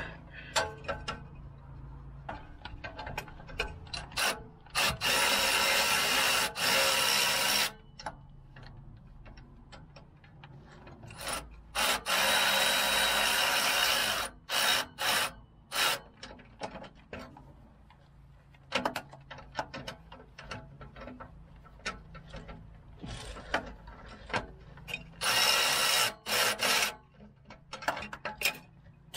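Ratchet wrench tightening the exhaust clamp nuts on a truck's flex pipe, in three long bursts of rapid ratcheting, with scattered clicks and knocks of tools on metal in between.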